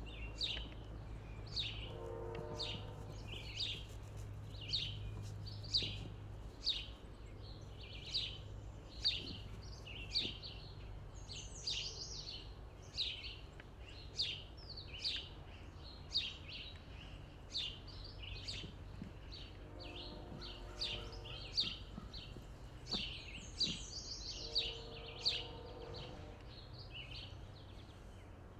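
A bird singing: a long, regular series of short, high, falling chirps, one or two a second, over a low steady rumble.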